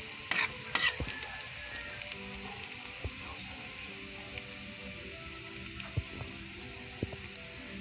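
Minced garlic and onion sizzling steadily in hot oil in a pan, with a few scraping strokes in the first second and occasional sharp pops.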